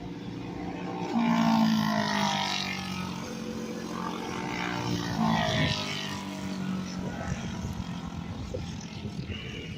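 Small racing engines running on the track, swelling loud twice as machines go past, about one and a half seconds in and again around five seconds in.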